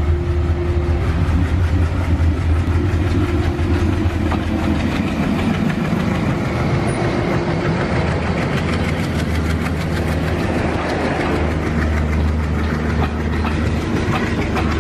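Diesel locomotive passing close by, hauling passenger coaches. Its engine gives a deep steady drone, and from about a third of the way in the coaches' wheels add a fast clatter over the rail joints.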